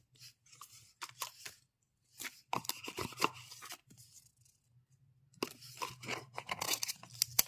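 Smartwatch packaging being torn and handled, in irregular bursts of tearing and crinkling.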